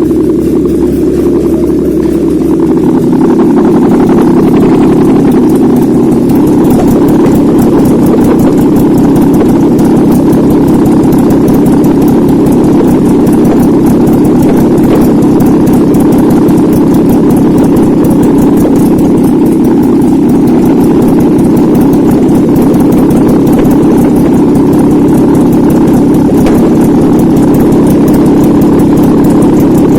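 Nissan VQ35DE 3.5-litre V6 running on a test stand, holding a steady speed. It gets slightly louder about three seconds in, then runs evenly.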